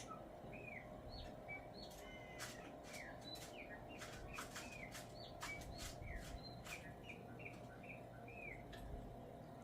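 A songbird giving many short chirping call notes, each a quick curved whistle, with scattered sharp clicks between them. It is faint, over a steady low hum.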